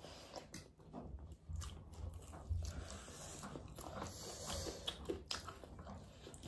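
Faint chewing and biting of people eating chicken wings and spicy ramen noodles, with scattered small clicks.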